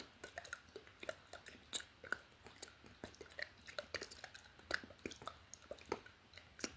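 Close-miked ASMR mouth sounds: wet clicks and smacks of the lips and tongue, many short ones at uneven spacing.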